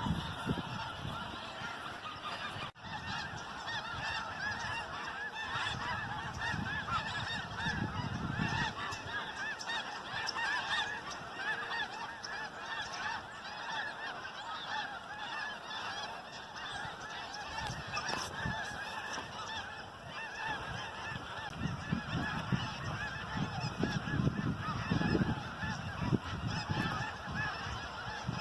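A huge flock of geese calling all at once, a dense, unbroken mass of overlapping honks. Low rumbles on the microphone come and go beneath it.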